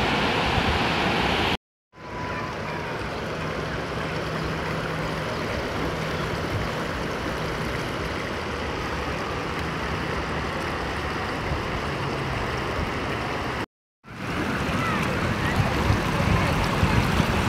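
Steady rush of a waterfall and fast mountain river, broken twice by a brief moment of complete silence.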